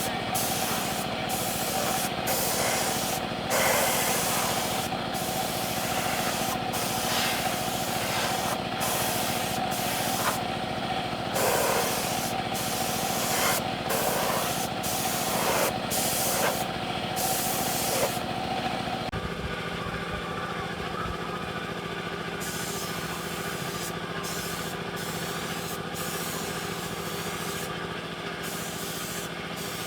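Compressed-air spraying hissing in repeated short bursts over a steady machine hum. About two-thirds of the way through the hissing stops, leaving a steady hum.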